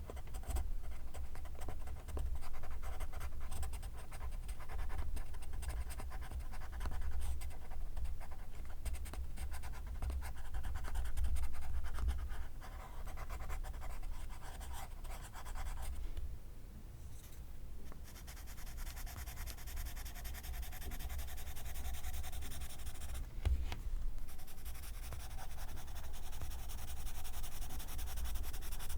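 Pencil writing on paper: a continuous run of scratchy graphite strokes. After a short lull about sixteen seconds in, the scratching turns steadier and hissier.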